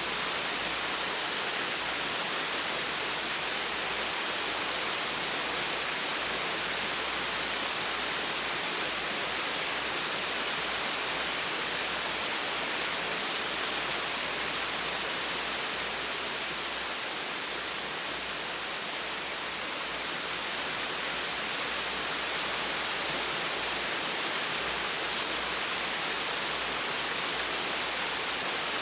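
Small waterfall splashing steadily, an even rushing hiss of falling water with no other sounds.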